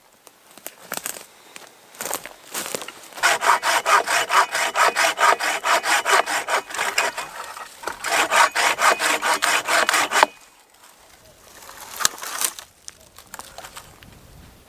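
Hand saw cutting through firewood: a few tentative strokes, then a fast, steady run of rasping back-and-forth strokes with a brief pause partway. The sawing stops about ten seconds in, leaving a few scattered knocks.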